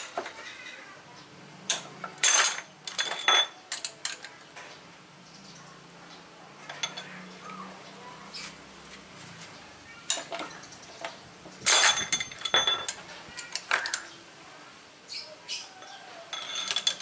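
Hand tools and metal parts clinking and knocking against each other in irregular clusters, with short bright metallic rings.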